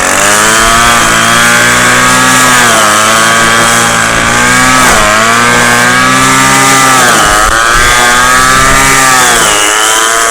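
Southland wheeled string trimmer's small gas engine running at high speed while cutting, its pitch dipping briefly about four times as it bogs under load and then recovering.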